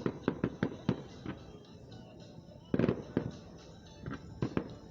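Fireworks going off in quick runs of sharp bangs: a string of reports through the first second or so, another cluster about three seconds in, and a few more near the end.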